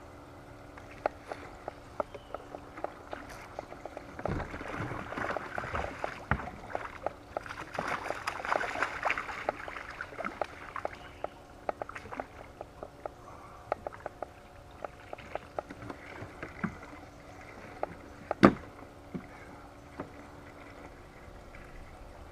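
Water sloshing and splashing around a small boat, strongest in the first half, with many scattered sharp clicks and one loud knock about eighteen seconds in.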